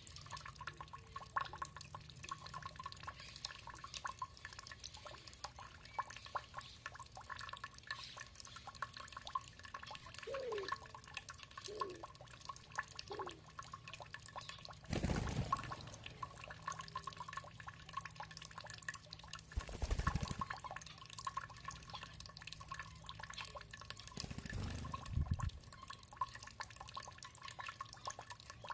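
Water dripping and trickling steadily, with many small drips and a few short falling plinks, and three louder rushes of water about five seconds apart in the second half.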